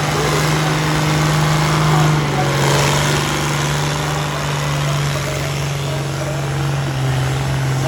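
Antique tractor engine running steadily and loud, its pitch dipping slightly about two seconds in and coming back up near the end.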